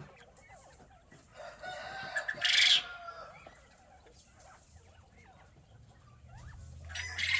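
A rooster crowing once, a call of about a second and a half, with chickens clucking softly around it; a second crow starts near the end.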